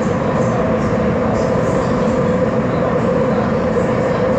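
C301 GTO-VVVF metro train running at steady speed: an even rumble of wheels and running gear with a steady, unchanging tone from the traction equipment.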